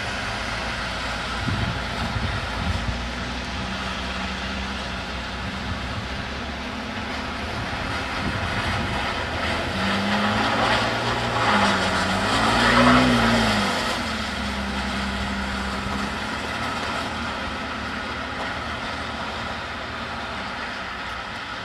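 Mercedes-Benz 280SE's straight-six engine revving as the car slides on a wet, icy lot, heard from outside the car over a steady hiss. The revs rise and fall in the middle and are loudest about thirteen seconds in, then the engine grows fainter toward the end.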